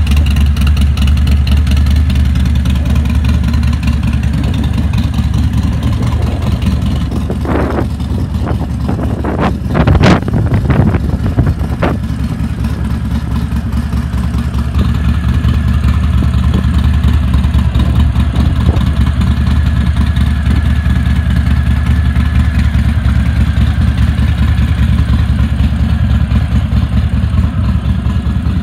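Harley-Davidson Fat Bob's Stage 3 Milwaukee-Eight V-twin, built out to 117 cubic inches, idling through a full 2-into-1 exhaust. A handful of quick throttle blips come through the middle, then it settles back to a steady idle.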